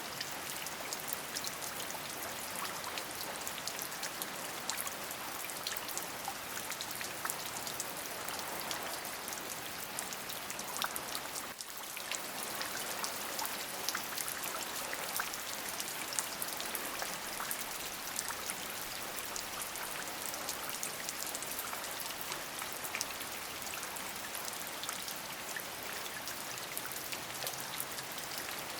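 Steady rain: an even hiss dotted with many sharp individual drop ticks, with a brief dip in level about twelve seconds in.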